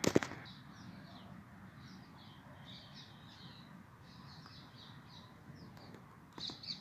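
Small birds chirping in quick, high notes, over a faint steady outdoor background. A couple of sharp knocks at the very start are the loudest sounds, and a few lighter knocks come near the end.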